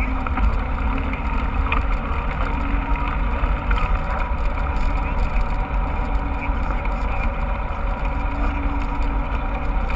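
Mountain bike being ridden on a trail: steady wind rumble on the microphone with tyre and trail noise.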